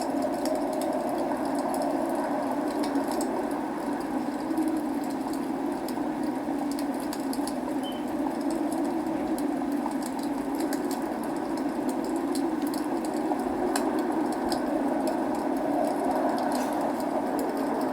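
Steady rain with scattered sharp crackles and pops from burning logs in a fireplace.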